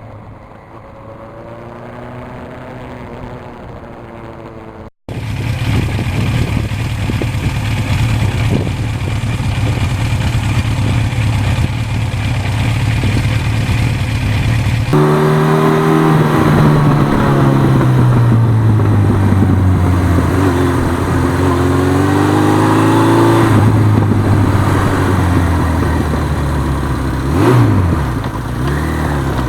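A 1982 Suzuki GS1100E's air-cooled inline-four engine running under way, with the bike in motion. It gets suddenly louder about five seconds in. In the second half the engine pitch drops off and then climbs again as the throttle is rolled back on.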